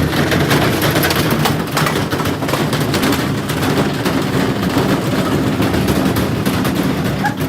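Washing machine spinning with bricks loose in its drum: a continuous, loud, rapid clatter of bricks banging against the drum and cabinet over a steady low motor hum.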